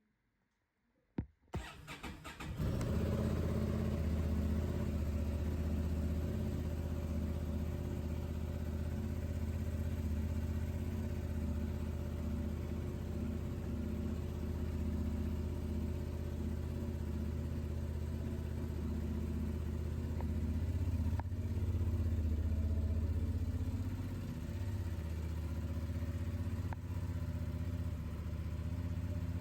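Honda XL750 Transalp's 755cc parallel-twin engine being started: a click, a short crank, then it catches about two and a half seconds in and idles steadily.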